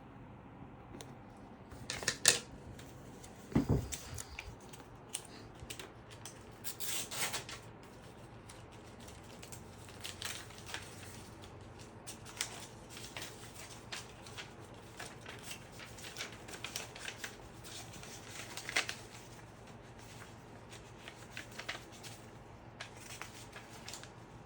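Hands handling small computer parts: scattered light clicks, taps and rustles, with a sharp click about two seconds in and a dull knock just after.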